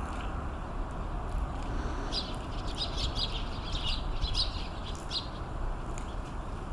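A bird chirping: a quick run of short, high notes for about three seconds in the middle, over a steady low ambient rumble.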